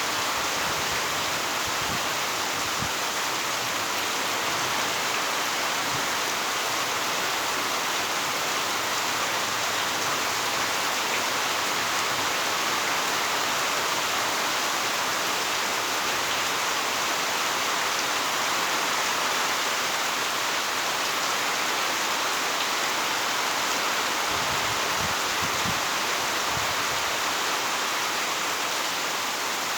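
Heavy rain falling steadily, an even hiss of water with no let-up. A few brief low bumps come near the end.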